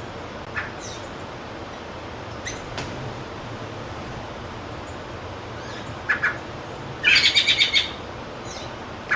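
Wild birds chirping: a few scattered single chirps, then a quick run of about eight notes near the end.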